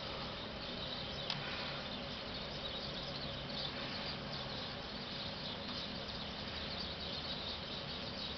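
Steady outdoor background noise with faint high chirping running through it, and one faint tick about a second in.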